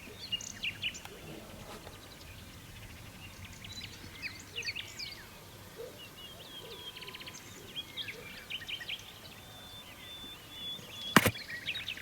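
Small birds chirping and twittering in a dawn chorus, with a rapid trill about seven seconds in. A single sharp click near the end is the loudest sound.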